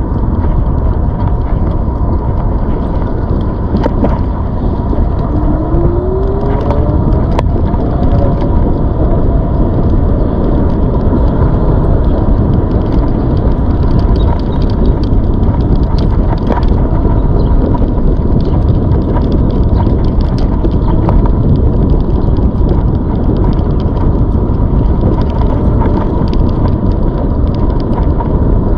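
Riding a ZOOZ electric bike: steady, loud wind and road rush on the microphone, with a thin steady whine running underneath and a couple of short rising squeaks in the first seven seconds.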